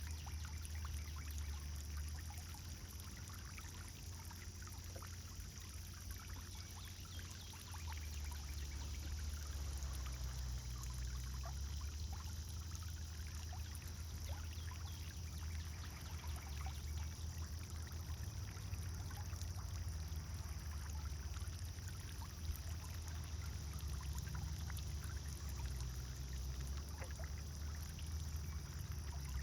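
Pond fountain running steadily, its water pouring and trickling back into the pond with many small splashes, over a continuous low rumble.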